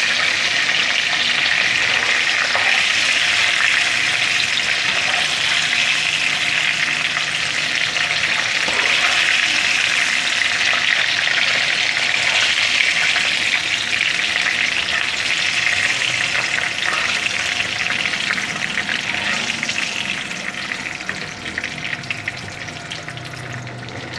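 Crumb-coated chicken fingers sizzling as they fry in hot oil in a pan, with a spatula stirring and lifting pieces out. It is a steady, dense sizzle that dies down over the last few seconds.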